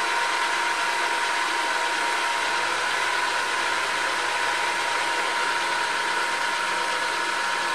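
Hare and Forbes HM48 milling machine running steadily during a milling pass, a constant whine over even motor and cutting noise.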